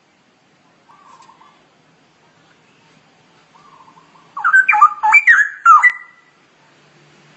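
Straw-headed bulbul (cucak rowo) singing: a couple of soft short warbles, then a loud burst of rich, gliding whistled phrases lasting under two seconds, ending on a short held note.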